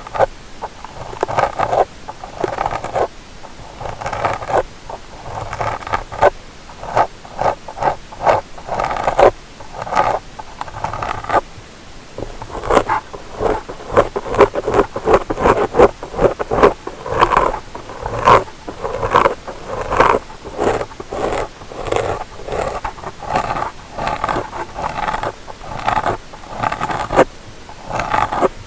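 Ear-cleaning tool scraping and rubbing at the ear of a stereo ASMR microphone: a busy run of short scratchy strokes, one after another, louder and denser in the middle.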